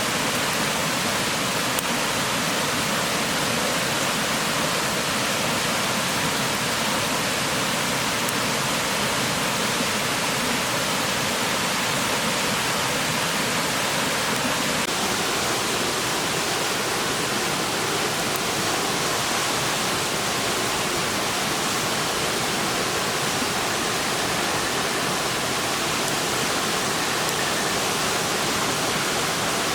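A clear river rushing steadily over its bed: an even, unbroken hiss of flowing water.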